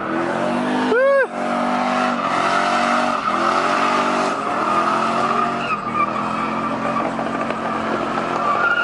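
A car doing donuts: its engine revving up and down in waves while the rear tyres squeal steadily against the pavement.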